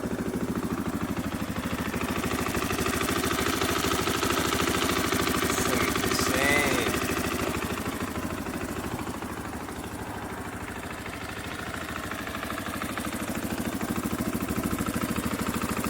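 KTM 500 EXC's single-cylinder four-stroke engine idling steadily, a thumper's even firing pulses, growing fainter for a few seconds past the middle and then louder again.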